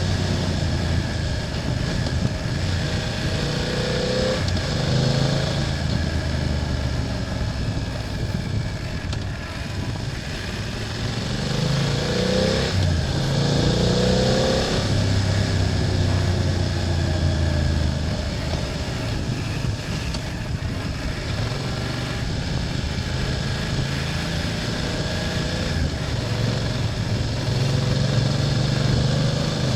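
BMW F800GS's parallel-twin engine running under way, its note rising and falling with the throttle, with a run of quick pitch changes about halfway through. Over a steady rush of wind and road noise.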